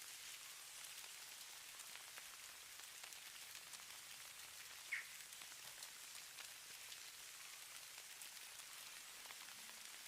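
Snow falling on a surface: a faint, steady hiss of fine ticks and patter, with one brief, sharper tick about five seconds in.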